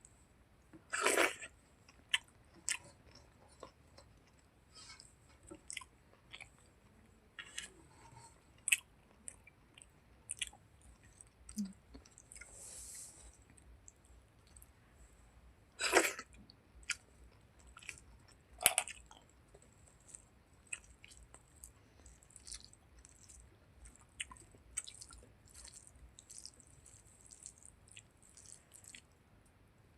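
Close-up eating sounds of chicken skin curry with rice: wet chewing, lip smacks and small clicks, with a few louder smacks about a second in, near the middle and a little after.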